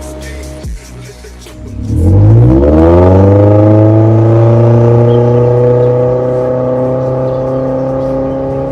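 Toyota Corolla Altis Hybrid's 2ZR-FXE 1.8-litre four-cylinder engine through an MS-R valved cat-back exhaust, revving up quickly about two seconds in and then held at a steady high rev, its pitch creeping slightly higher. Music plays before the engine comes in.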